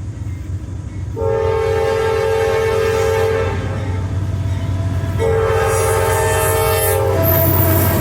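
Diesel locomotive horn sounding a chord of several tones in two long blasts, the second ending just before a further note begins near the end. A steady low rumble of the locomotive and train runs underneath.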